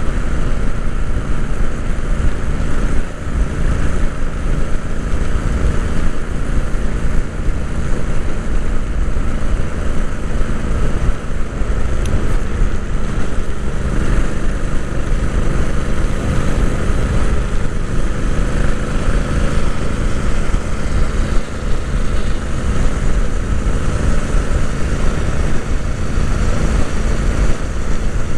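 Royal Enfield Interceptor 650's parallel-twin engine running steadily under way, recorded onboard the motorcycle.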